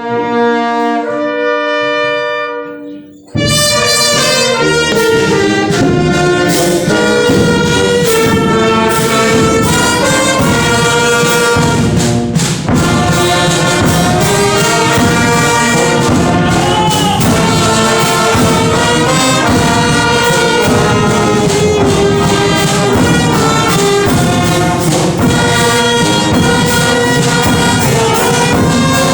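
Brass band playing a hymn: a held opening chord fades away, then about three seconds in the full band comes in loudly, with trumpets and trombones over drums.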